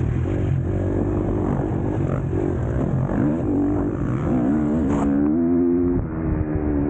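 KTM SX-F four-stroke motocross engine revving hard under racing throttle, its pitch rising and falling over and over. It holds high for about a second, then drops off briefly before picking up again.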